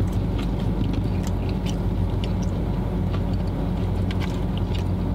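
Car engine idling with a steady low hum inside the cabin, with small crisp clicks of someone chewing fried chicken over it.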